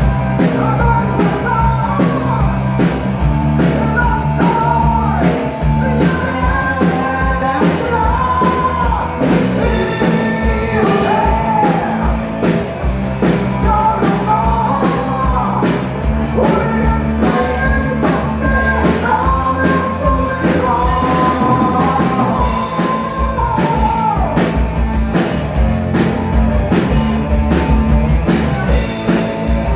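Live rock band playing loudly: drums and bass keep a steady beat while a gliding lead melody runs over them, dropping away near the end.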